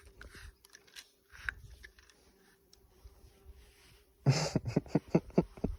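Moose calf's coat being scratched: a fast run of rasping strokes, about five a second, begins about four seconds in after a few faint taps.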